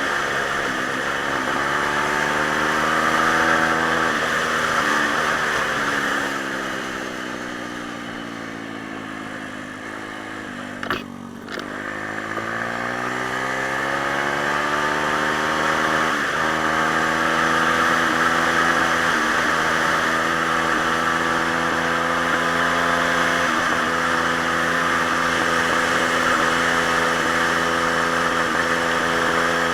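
Pit bike's single-cylinder engine running under way: it holds steady, then drops in pitch as the throttle comes off for several seconds, a short click sounds about eleven seconds in, and the engine revs back up and settles at a steady speed.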